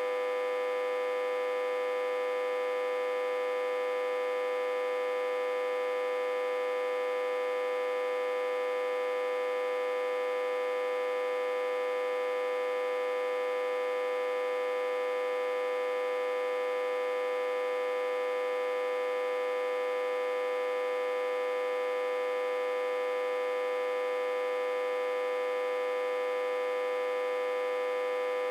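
Autotransformer humming steadily and without change, a buzzy hum with many overtones. It is driven at about 60–80 V while reverse-connected to a step-down transformer.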